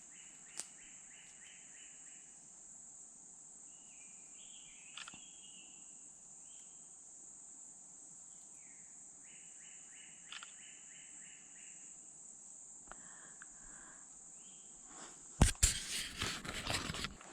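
A steady high-pitched insect drone, with songbirds singing short repeated trills and calls over it. Near the end, loud rustling and crunching footsteps through the undergrowth.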